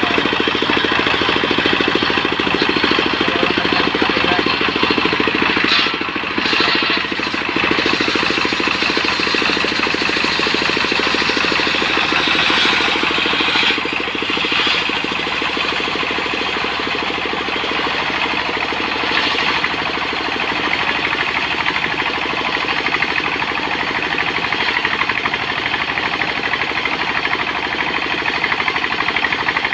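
Sawmill engine running steadily under load, with a hissing, rasping upper layer from the sawing that swells and eases a few times.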